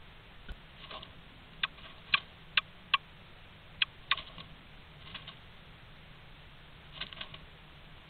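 A male pied flycatcher moving about inside a wooden nest box, making a series of sharp clicks and taps. About six of them come roughly half a second apart, between one and a half and four seconds in, with softer ticking a little later and again near the end.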